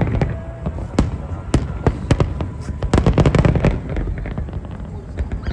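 Fireworks display: a rapid, irregular run of sharp bangs and crackles from bursting shells over a continuous low rumble.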